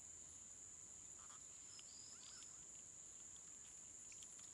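Quiet outdoor ambience: a steady, faint, high-pitched insect drone, with a few faint chirps about two seconds in.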